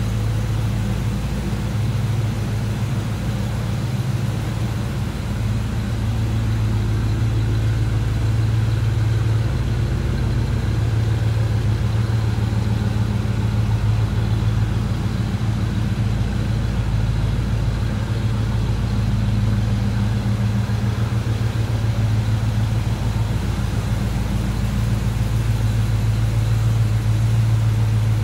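A 350 cubic-inch four-barrel V8 in a 1972 Chevrolet Monte Carlo idling steadily.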